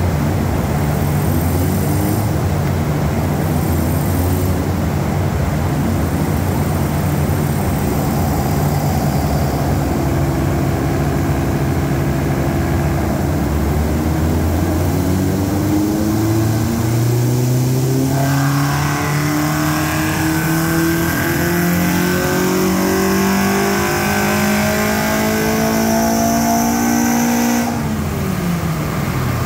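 Ford Puma's tuned Zetec four-cylinder engine running under load on a chassis dyno: it holds fairly steady for about twelve seconds, then its pitch climbs steadily as it pulls up through the revs in a power run. Near the end the throttle is lifted and the revs fall away sharply.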